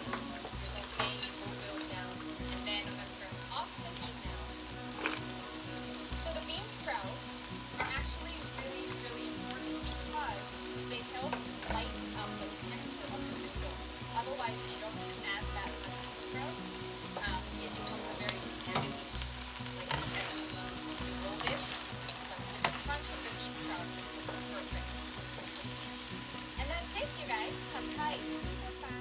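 Stir-fried rice noodles sizzling in a nonstick wok while a slotted spatula stirs and turns them, with frequent clicks and scrapes of the spatula against the pan and a few sharper taps partway through.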